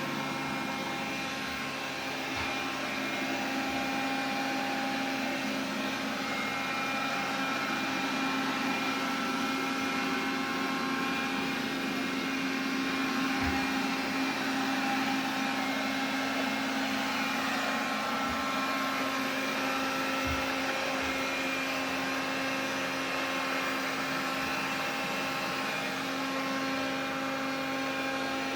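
Xiaomi vacuum cleaner running steadily: a motor hum with several whining tones that fade in and out, and a few soft low thumps.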